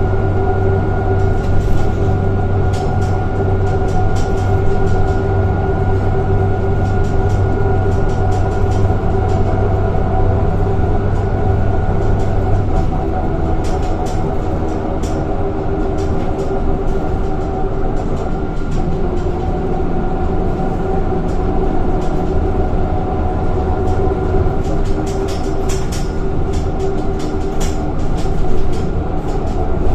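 Scania K230 single-decker bus heard from inside the saloon while under way: its engine and ZF automatic gearbox run continuously, with steady whining tones above the engine drone. The low drone eases about 13 seconds in.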